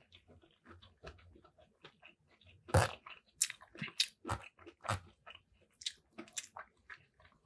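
Chewing and crunching a mouthful of pepper shrimp fried rice, a series of sharp wet clicks and crunches, the loudest about three seconds in, with a metal fork scraping rice in a foam takeout container.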